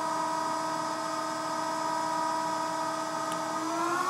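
Bridgeport Romi EZ Path CNC lathe spindle running with a steady whine of several even tones at 1500 RPM. Near the end the whine starts rising in pitch as the spindle speeds up toward 3,000 RPM.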